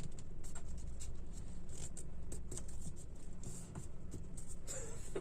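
Origami paper being folded and creased by hand: many small, irregular crinkles and scrapes of paper sliding and being pressed flat, over a low steady hum.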